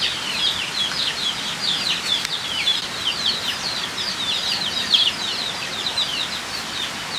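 A flock of chicks peeping continuously: many short, high, falling peeps overlapping, several a second.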